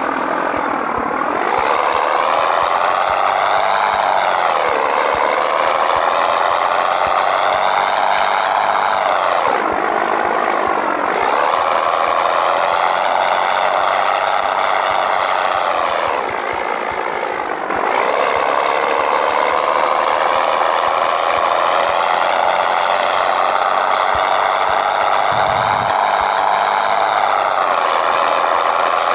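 Scania 113 truck's 11-litre six-cylinder diesel pulling away under load, its engine pitch climbing steadily in each gear and dropping back sharply at three gear changes, about five, ten and seventeen seconds in.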